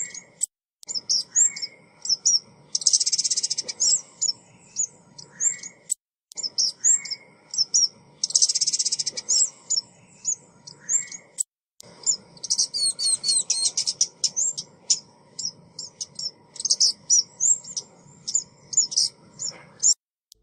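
Looped lure recording of a female ốc mít bird calling: rapid high chirps and twitters, with a loud fast trill every few seconds. The sound cuts off abruptly near the end.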